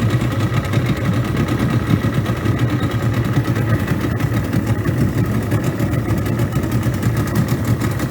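Outboard motor of a small boat running steadily at low to medium speed, with an even engine hum and no change in pace.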